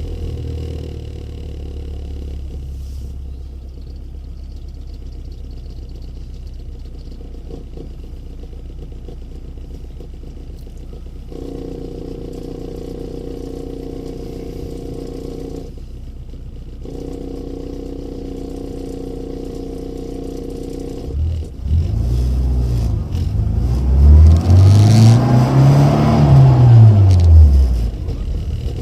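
Rover Mini's A-series four-cylinder engine breathing through an aftermarket HKS/Rookie muffler: it runs low and steady for about twenty seconds, then revs up loudly about three-quarters of the way in, its pitch rising and falling twice as the revs climb and drop.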